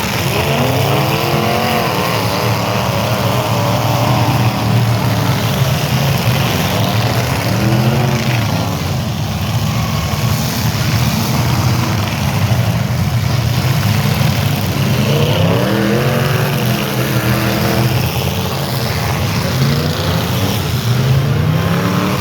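Engines of old-iron demolition derby cars running loud, with a steady low engine din. Engines are revved several times, the pitch climbing and falling.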